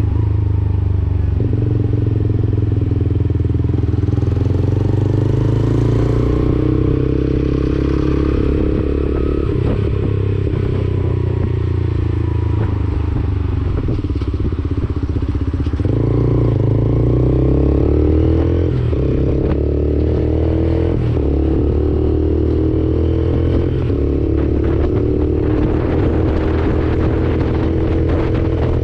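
Lexmoto Assault 125 motorcycle's single-cylinder 125cc engine running through an aftermarket Black Widow exhaust while being ridden. The engine note rises and falls with the throttle, with a few sudden steps in pitch.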